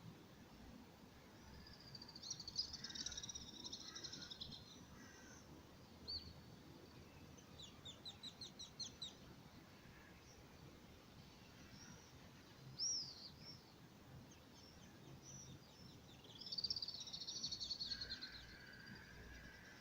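Small songbirds singing in short, high-pitched phrases over faint background noise: a twittering phrase a couple of seconds in, a rapid trill of about eight notes in the middle, a single sharp note, and another twittering phrase near the end.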